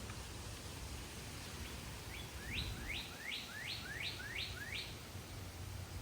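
A songbird singing a phrase of about eight quick rising notes, roughly three a second, over a steady low outdoor rumble.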